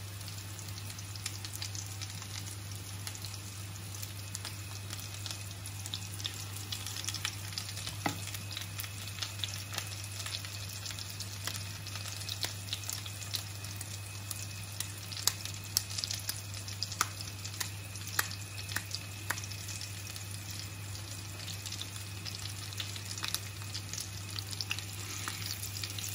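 Breaded minced-pork cutlets frying in vegetable oil in a pan over medium heat: a steady sizzle scattered with sharp crackles and pops of spitting oil, over a steady low hum.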